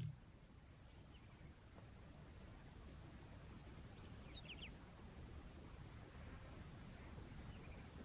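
Faint outdoor natural ambience, close to silence: a low background haze with scattered faint short bird chirps and a steady thin high tone.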